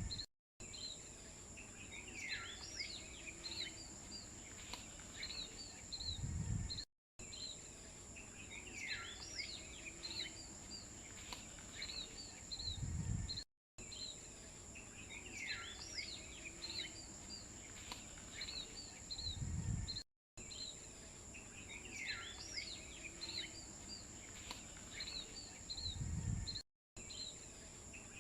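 Looped nature ambience: birds chirping with quick falling whistles over a steady high buzz. The same stretch repeats about every six and a half seconds, each repeat ending in a low thump and a brief dropout.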